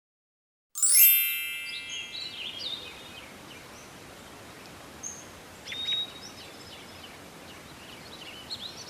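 A bright metallic chime rings out about a second in and fades away over a couple of seconds. After it, birds chirp here and there over a steady outdoor hiss, with one longer whistled note near the middle.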